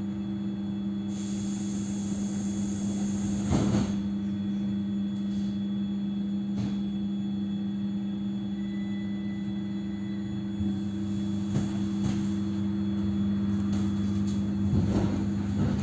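ED9M electric multiple unit heard from inside the car as it moves off: a steady low electrical hum, with a few short knocks from the wheels on the rails.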